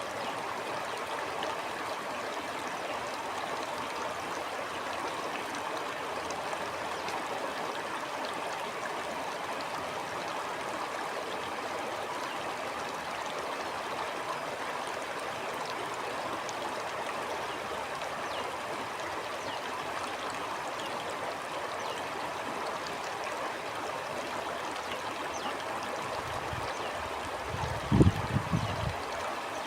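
Shallow stream flowing and gurgling steadily. A brief low rumble with a couple of thumps comes near the end.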